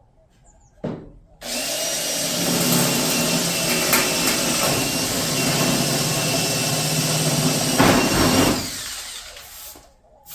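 Power drill running steadily for about seven seconds while drilling a hole through the truck's sheet-metal bedside, then winding down, with a short knock just before it starts.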